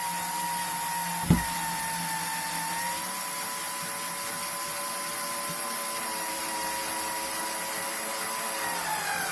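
Electric drill motor running steadily, with a sharp click about a second in and the pitch dropping near the end as it slows.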